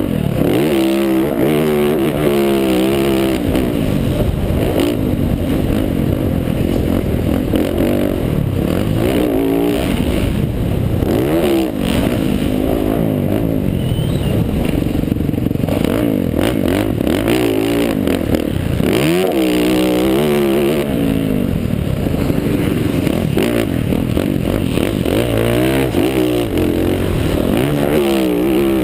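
Yamaha YZ450F's single-cylinder four-stroke engine racing on a motocross track, its pitch rising hard and dropping off again and again as the rider accelerates, shifts and rolls off.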